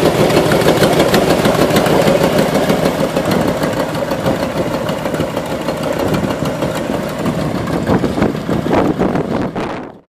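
Ford L-series truck's gas V8 engine idling steadily, a fast even run of firing pulses. The sound cuts off abruptly near the end.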